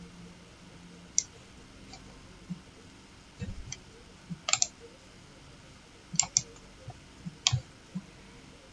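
Computer mouse clicking: single sharp clicks and a couple of quick double-clicks, spread a second or two apart, over a quiet room.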